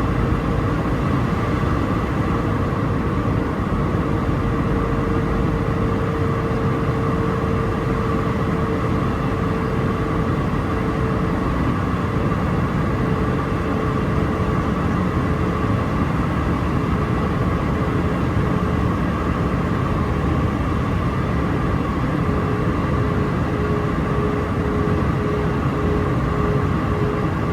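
Steady cabin noise inside an Airbus A319-131 on its descent, the rumble of its IAE V2500 turbofans and the rush of air over the fuselage. A mid-pitched hum rides on it and breaks into an even pulsing over the last few seconds.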